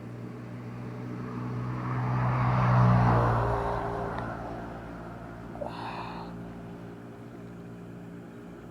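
A motor vehicle's engine passing by: a low engine hum that grows louder to a peak about three seconds in, then slowly fades away.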